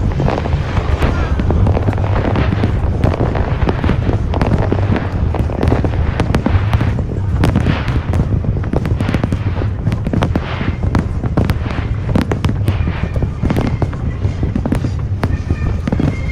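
Aerial fireworks bursting in rapid, dense succession: a continuous run of bangs and crackles over a steady low rumble.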